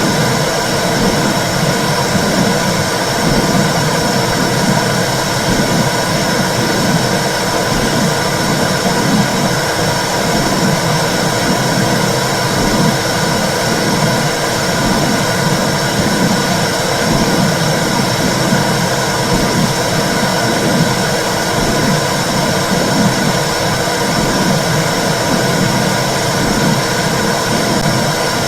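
Womb sound for soothing babies: a loud, steady whooshing noise with a low pulse swelling about once a second, the rhythm of blood flow and heartbeat heard inside the uterus.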